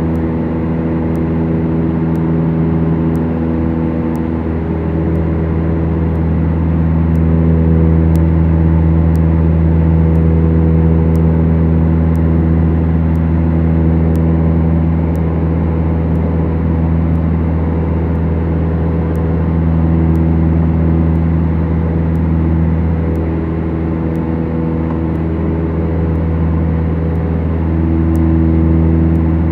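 The Beechcraft Duchess's two four-cylinder Lycoming piston engines and propellers drone steadily in the cabin, the tone slowly swelling and fading as the two engines drift in and out of step. Faint ticks sound about once a second.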